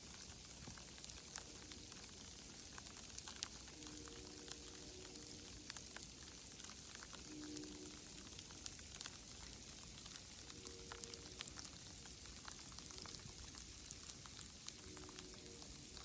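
Sleet pellets pattering on dead leaves and the woodland floor: a quiet, steady hiss full of tiny sharp ticks. A few faint, brief low tones sound in the distance about four times.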